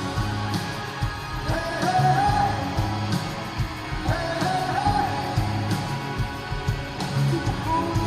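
Live rock band music with a singing voice over steady drums and guitars, a sung line rising and falling twice.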